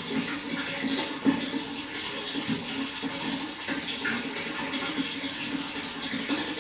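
Water flowing steadily, with small splashes and bubbling throughout and one brief louder splash about a second in.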